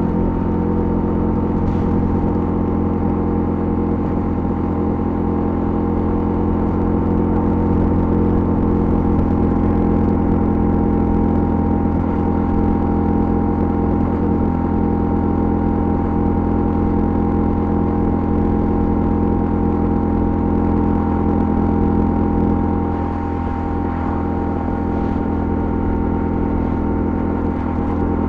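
Honda CL250's single-cylinder engine running at a steady cruise, its level dipping briefly a little over twenty seconds in.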